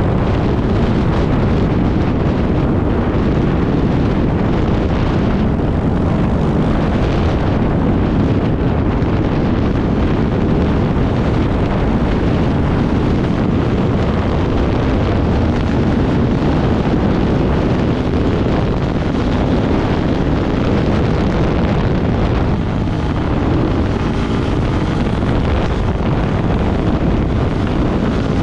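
Off-road motorcycle engine running steadily under way, nearly buried in heavy wind buffeting on the microphone.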